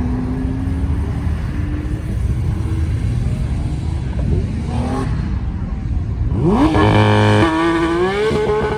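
A car engine running, then revving up sharply about six and a half seconds in, its pitch climbing fast and holding high for about a second before settling to a steadier note.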